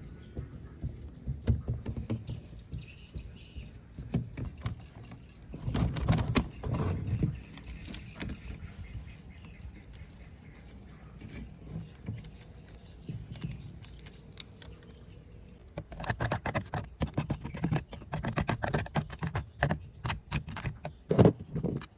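Irregular clicks, knocks and clatter of tools and small parts being handled at a workbench, with bursts of rapid clicking about six seconds in and again over the last several seconds.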